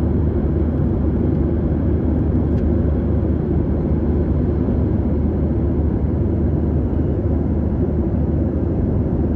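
Steady low rumble of a Boeing 737-700's engines and airflow heard inside the passenger cabin, even and unchanging.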